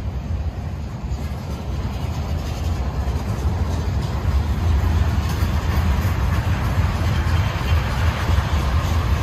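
Freight train cars rolling past on the rails: a steady low rumble with wheel and rail noise. It grows louder about four seconds in, as tank cars go by.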